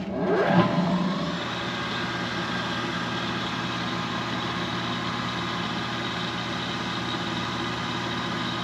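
A Rottler machine's spindle motor starting up, rising in pitch over about the first second, then running at a steady speed with an even mechanical hum.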